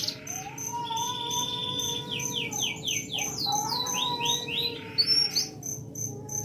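Several songbirds singing at once: a buzzy trill, runs of quick falling notes and sliding whistles, over a fast, even high-pitched ticking.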